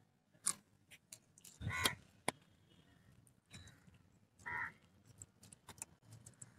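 Close-up eating sounds of a man chewing roast quail off the bone: scattered wet lip smacks and sharp mouth clicks, with two louder, harsher short sounds about two seconds in and again about four and a half seconds in.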